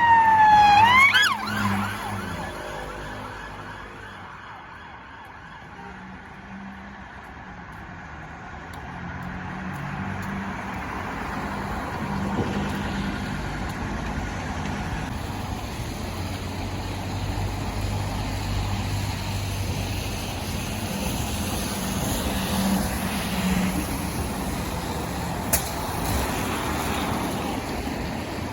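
Emergency vehicle siren sweeping down and then sharply up, cutting off about a second and a half in. Then a steady street-traffic haze with vehicle engines humming, growing slowly louder, and one sharp click near the end.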